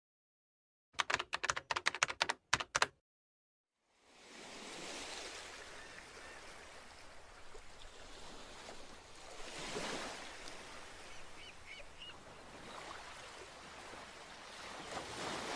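A quick run of about a dozen sharp clicks, like typewriter keys, lasting about two seconds. Then a soft wash of ocean surf that swells and ebbs, with a few faint bird chirps.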